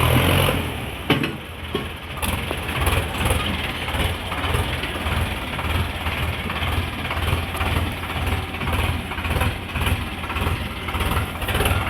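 Tractor engine running with a low, even throb that swells about twice a second. A louder engine note drops away about half a second in, and there is a sharp knock about a second in.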